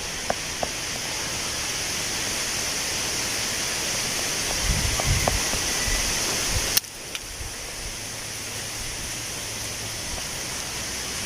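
Wind blowing through tree leaves: a steady rustling hiss, with a few light ticks in the first second and low rumbles of wind on the microphone about five seconds in. A little past halfway the sound drops suddenly, then goes on quieter.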